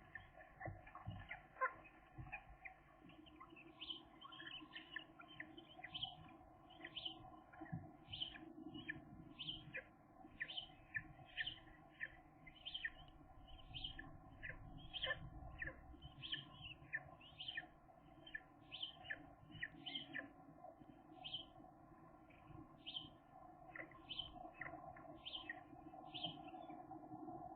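Gull chicks peeping: short, thin, high calls repeated over and over, about one or two a second, faint.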